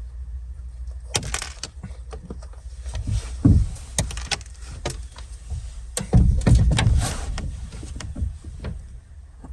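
Clicks, knocks and rattles of a pickup truck's door or rear hatch being worked, with heavy thumps about three and a half seconds in and again around six to seven seconds in.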